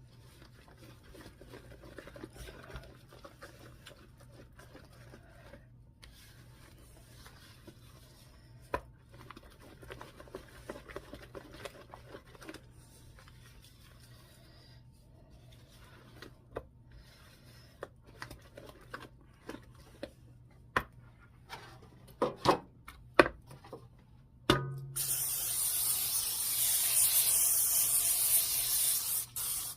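Quiet kitchen handling sounds: light rubbing and scattered clicks, a few sharper knocks, then near the end a loud steady hiss lasting about five seconds.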